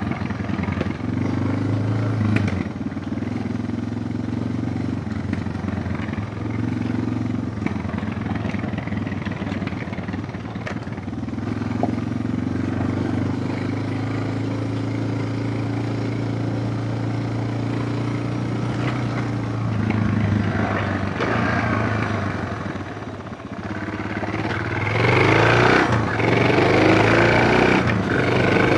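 Suzuki DR650's single-cylinder four-stroke engine running at a steady, low pace off-road, then getting louder near the end as it is opened up.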